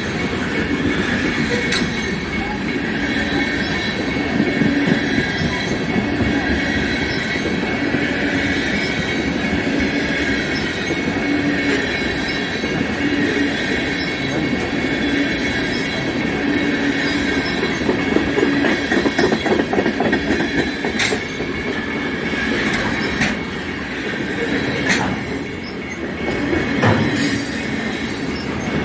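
Freight train cars rolling past, with steel wheels squealing steadily on the rails and a few sharp clicks over the rail joints in the second half.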